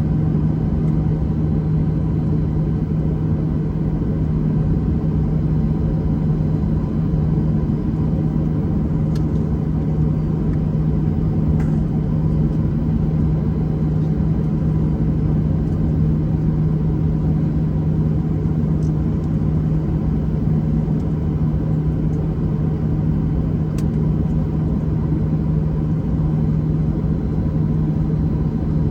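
An engine running steadily at constant speed, a low even drone with a strong constant hum, with a few faint clicks.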